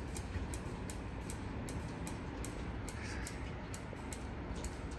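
Loaded ethanol tank cars rolling slowly in reverse: a low rumble with a steady, even ticking of roughly two to three clicks a second.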